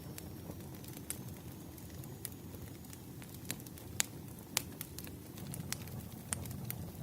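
Burning firewood: a steady low rumble of flames with scattered sharp crackles and pops, the two loudest about four and four and a half seconds in.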